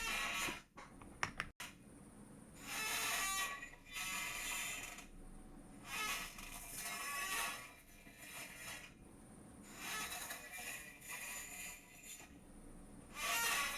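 A chair creaking and squeaking in repeated, irregular bursts about a second long each, with a couple of sharp clicks about a second and a half in.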